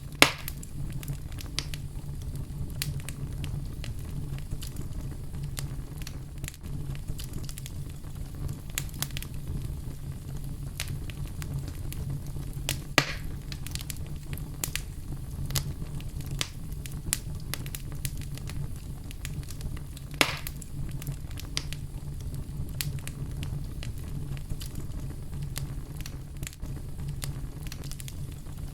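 Fire burning in a fireplace: a steady low rumble of flames with frequent small crackles, and three louder pops, one right at the start, one about 13 seconds in and one about 20 seconds in.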